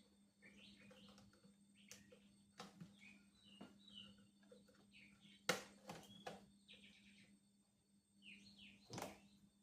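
Small birds chirping faintly and repeatedly in the background, with a few sharp clicks and knocks, the loudest about five and a half seconds in.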